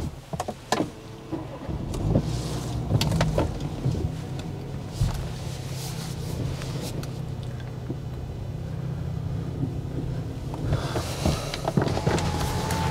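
Car engine running steadily with a low, even hum, a few clicks and knocks in the first seconds, and more road noise swelling near the end.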